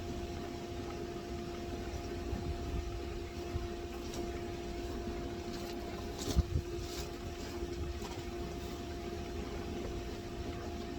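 A steady machine hum with a low-pitched drone underneath, broken by a few sharp clicks and knocks around the middle, the loudest about six seconds in.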